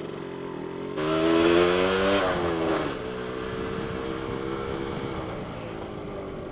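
Yamaha RZX two-stroke motorcycle engine under way: about a second in it opens up and its pitch climbs for a second or so, then drops and settles into a steady cruise.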